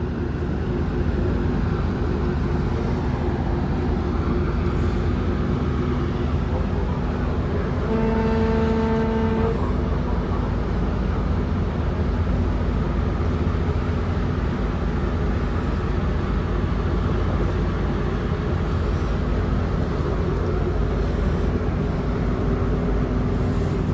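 A vessel's horn sounds one blast of about a second and a half, about eight seconds in, over a steady low engine drone and rumble.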